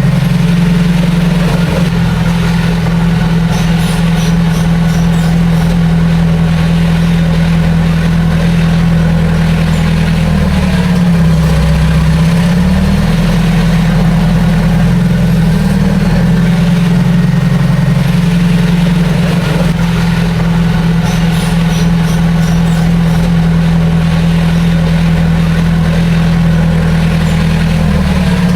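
Heavy diesel engine of earthmoving machinery running steadily. Its pitch dips briefly a few times, about ten seconds in and again near the end.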